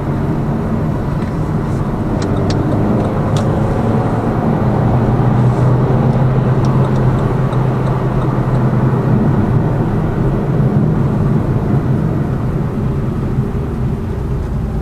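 Lada Vesta Cross's 1.8-litre engine and tyre and road noise heard from inside the cabin while driving, a steady low hum that swells a little midway.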